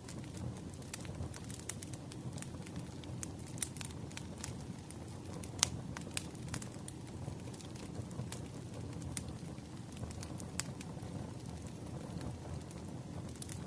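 Wood fire crackling: a steady low rush of burning logs with irregular sharp pops and snaps, one louder pop a little before halfway.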